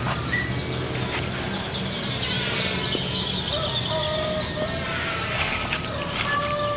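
Birds chirping and calling, many short chirps and glides, over a low steady hum.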